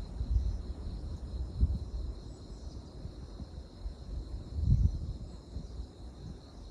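Wind buffeting the microphone in uneven gusts, strongest about a second and a half in and again near five seconds, over a steady high chirring of insects.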